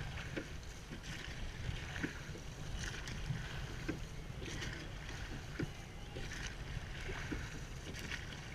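Rowing shell under way: water rushing and oar blades swishing in a regular rhythm of about one stroke every two seconds, with a few light knocks. A steady low rumble of wind on the microphone sits beneath.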